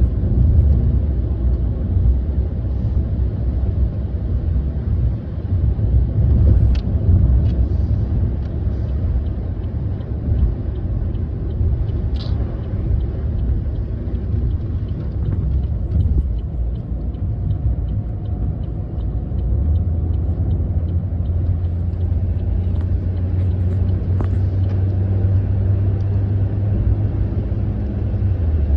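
Car driving in light rain, heard from inside the cabin: a steady low road and engine rumble with a haze of tyre noise on the wet road, and a few sharp clicks and faint ticks scattered through it.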